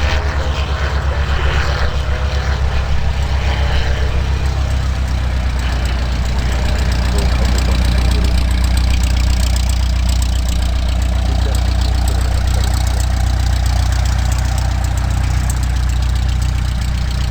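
Cessna 172S Skyhawk SP's four-cylinder Lycoming piston engine and propeller idling on the ground, a steady low drone with a beating pulse in the first few seconds that grows slightly louder after about six seconds.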